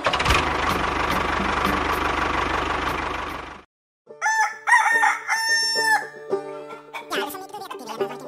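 A motor runs with a steady low rumble for about three and a half seconds, then cuts off suddenly. After a brief silence a rooster crows and clucks.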